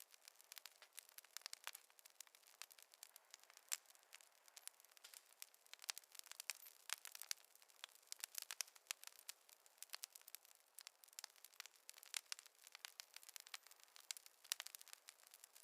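Wood fire crackling faintly, with dense, irregular small pops and snaps.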